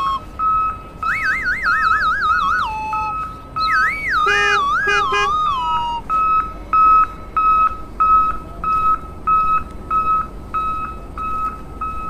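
Electronic warbling tones that wobble and slide down in pitch, three runs in the first six seconds, followed by a steady high-pitched beep repeating about twice a second.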